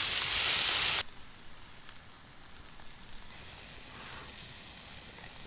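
Beef slices, fried eggs and green vegetables sizzling loudly on a griddle over a gas camp stove. The sizzle cuts off abruptly about a second in, leaving quiet outdoor background with two faint short chirps.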